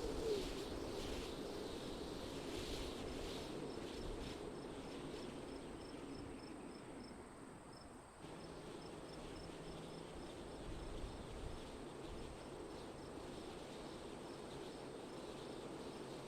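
Wind blowing steadily, with a cricket giving rapid, evenly spaced high chirps over it.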